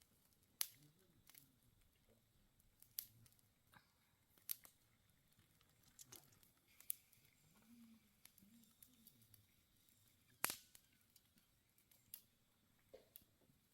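Campfire crackling, with sharp, irregular pops every second or two and a louder pop about ten seconds in.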